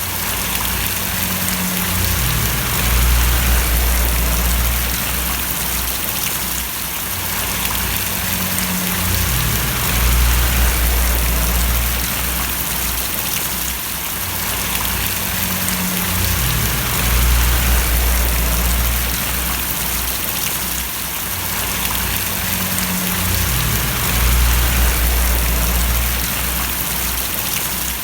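Steady rain splashing, an even hiss, with a low rumble underneath that swells for a few seconds about every seven seconds.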